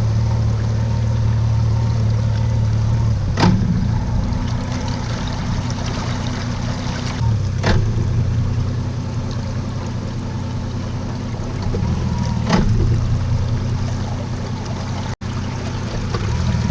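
Boat motor running steadily with water splashing against the hull. There are three short knocks or splashes, about four seconds apart.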